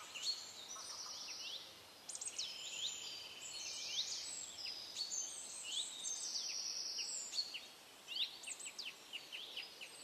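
Several songbirds calling at once: many short, quick chirps and sweeping notes with short trills, overlapping throughout.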